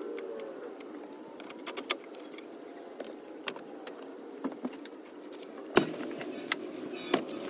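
Hand work on a car's interior: scattered light clicks and clinks of tools and trim, with a sharp knock about six seconds in and another near the end, over a steady hum.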